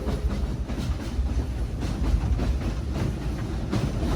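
Steam train's passenger cars rolling along the track, heard from aboard: a steady low rumble with light, irregular clicks from the wheels.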